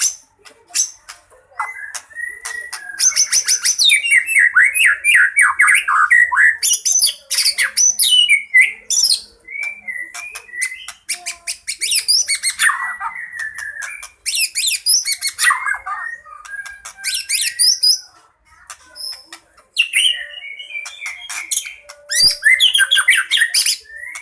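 White-rumped shama singing a fast, varied fighting song: rattling series of quick notes, sweeping whistles and chattering phrases, packed with phrases mimicked from other birds, with brief pauses between bouts.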